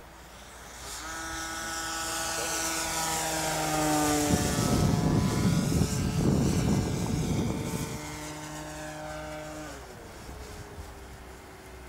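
Electric RC Cessna 182 model plane flying past: the whine of its electric motor and propeller grows louder, peaks with a rush of propeller noise, drops in pitch as it passes, then fades away.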